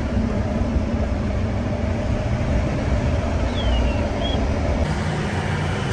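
Steady low rumble of a running vehicle, engine and road noise, with a brief faint falling squeak about three and a half seconds in.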